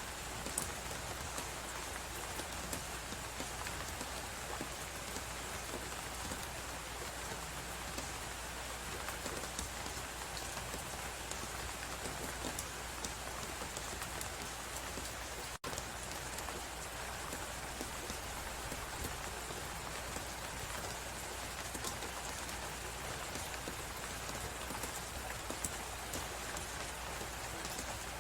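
Crackling wood fire, many small pops and snaps over a steady hiss of wind and blowing snow; the sound drops out for an instant about halfway.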